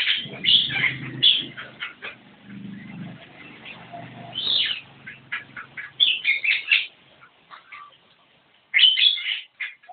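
Javan myna calling and singing in quick runs of short, high notes, in clusters with gaps between: loudest near the start, about six seconds in and again near the end.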